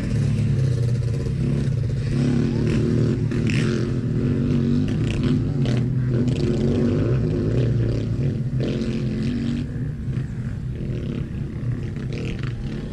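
Dirt bike engine revving and easing off as it is ridden around a track, with scattered clatter.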